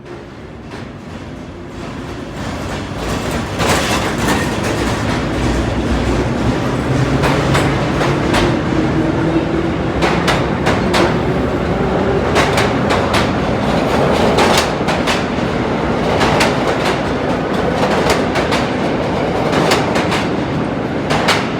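Vintage R1/R9 subway train running on the tracks. It grows louder over the first few seconds, then keeps up a steady rumble with wheels clacking irregularly over rail joints. A motor whine rises in pitch partway through.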